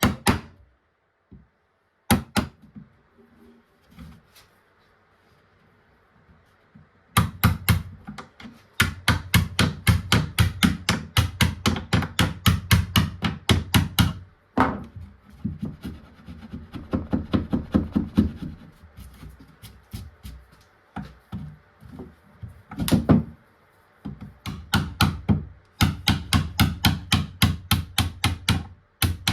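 Fast, rhythmic strokes of a hand tool on wood, about five a second, in three long runs, with a few single knocks before them.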